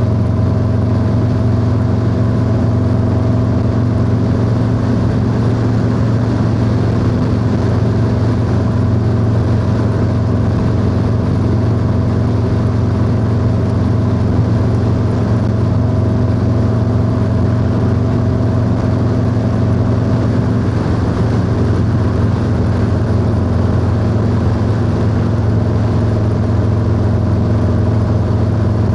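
Harley-Davidson Low Rider S V-twin engine through a 2-into-1 exhaust, running at a steady cruising speed with an even, unchanging note, over wind and road noise.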